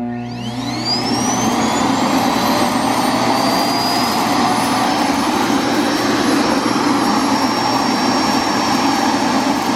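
iRobot Clean Base self-emptying station on a Roomba s9+: its suction motor starts abruptly and spins up with a rising whine within about a second, then runs steadily and loudly, pulling rice out of the robot's bin.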